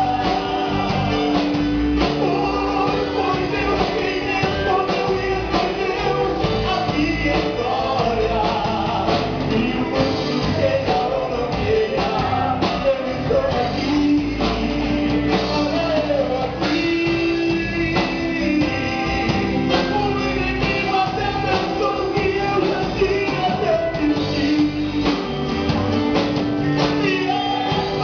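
Live Christian rock band playing a song, with a lead singer over the band.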